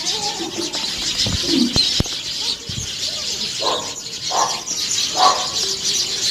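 Birds calling: a steady chorus of high chirps, with three louder, lower calls about a second apart in the second half.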